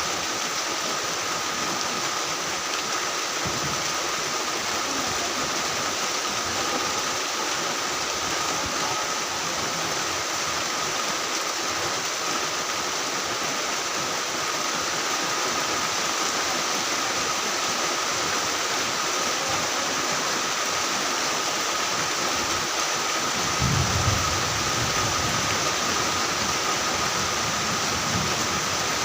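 Heavy rain falling steadily, an even hiss, with a thin steady high tone under it. A brief low rumble comes near the end.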